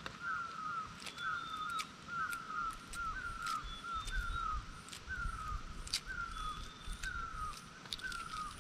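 A bird calling over and over, a short falling note repeated a little under twice a second, with scattered light clicks of eggshell being cracked and peeled off boiled eggs.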